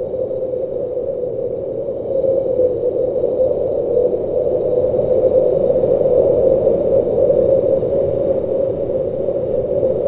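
Blizzard wind blowing steadily: a dense rushing noise with a wavering hollow tone in it, growing a little louder about two seconds in.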